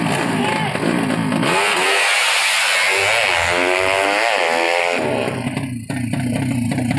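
Tuned 200cc underbone drag-race motorcycle engines revving hard, the engine note climbing and falling in pitch. The sound changes abruptly twice, about a second and a half in and again about five seconds in.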